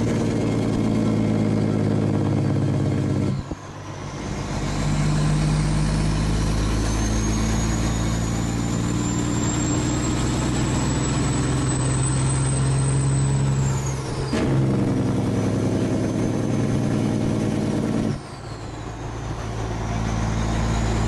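Truck engine running steadily, with a thin high whistle that climbs slowly and then drops away sharply about two-thirds of the way through. The sound changes abruptly a few times.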